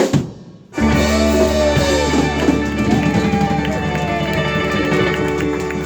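Live rock band playing: after a short break the full band comes back in about a second in on a held chord over steady bass, with an electric guitar bending notes up and down.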